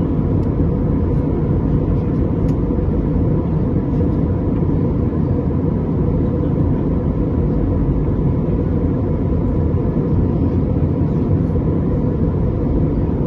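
Steady low rumble of an airliner cabin in flight: jet engine and airflow noise, unbroken, with a faint steady tone above it.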